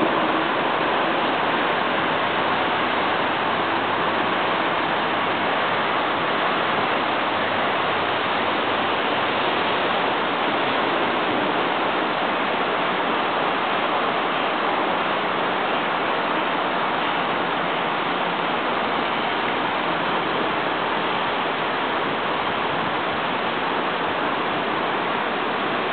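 Steady rushing noise that stays even throughout, with no separate cracks, drops or rumbles standing out.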